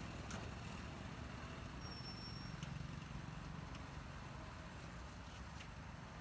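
Street ambience: a steady low rumble of traffic with a few faint clicks.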